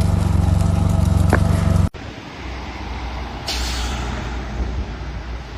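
A heavy vehicle's engine running with a steady low hum, cut off abruptly about two seconds in. Then a quieter low rumble with a short hiss about a second and a half later.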